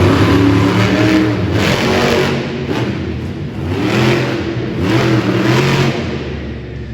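Bigfoot monster truck's engine revving hard, its pitch climbing and falling several times, then easing off near the end.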